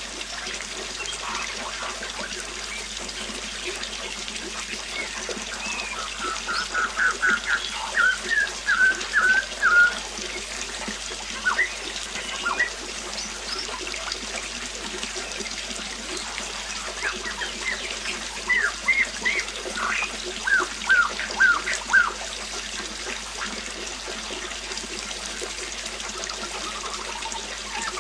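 Steady rush of falling water from a waterfall, with a songbird singing several phrases of quick, repeated notes over it.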